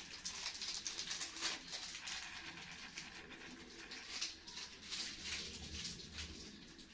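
Faint bird calls, including dove-like sounds, heard now and then over quiet room tone.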